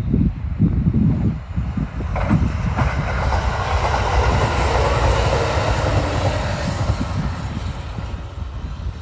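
Kintetsu electric train passing by, its running noise building from about two seconds in and fading away near the end, with wind buffeting the microphone throughout.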